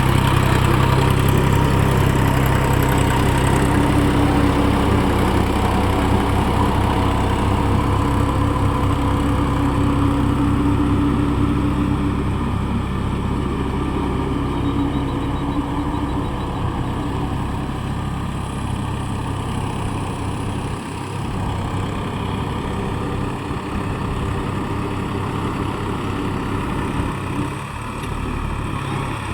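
Massey Ferguson 254 4WD Dynatrack tractor's engine running steadily while it tills with a rotavator, somewhat quieter after about twelve seconds.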